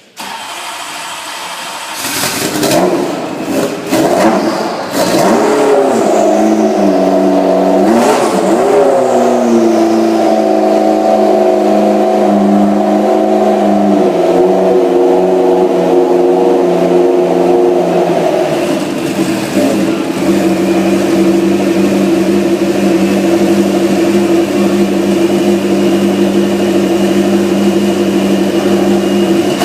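McLaren MP4-12C GT3 race car's twin-turbo V8 coming to life after a short whir about two seconds in, blipped several times with quick rises and falls in pitch, then idling steadily, the idle dropping a little and settling about two-thirds of the way through.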